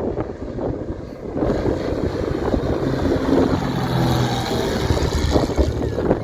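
Jet airliner passing low overhead, its engine rush swelling about a second and a half in, over steady wind buffeting the microphone.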